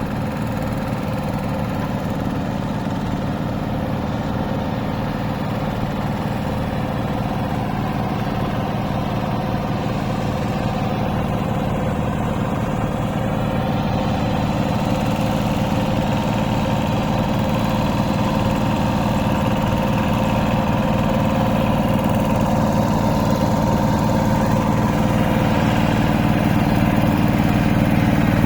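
Hand tractor's engine running steadily and evenly, slowly growing louder.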